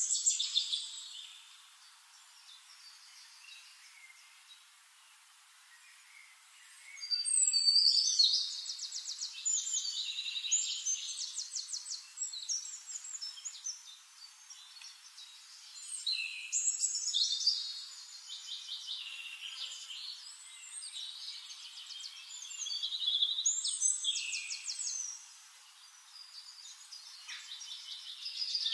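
Small birds chirping and trilling in bursts of song a few seconds long, with quieter stretches between.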